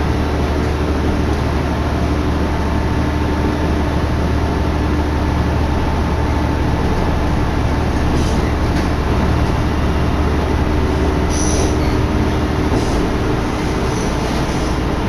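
Diesel railcar running along the line, heard from inside the car: a steady loud rumble of engine and wheels on rail, with a low drone and a few short high wheel squeals about eight seconds in and again around eleven to thirteen seconds.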